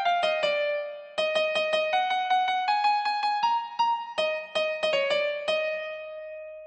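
Guide melody of a pop song's vocal line played on a piano-like electric keyboard tone, one note at a time in quick runs. It pauses briefly about a second in, and a long held note fades away near the end.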